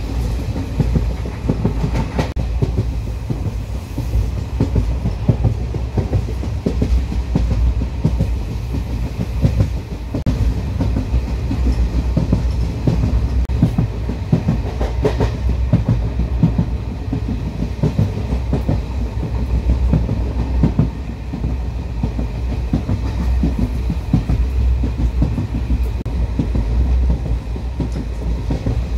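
Passenger train coach running at speed, heard from inside at a barred window: a steady low rumble with the irregular clickety-clack of wheels over the rails.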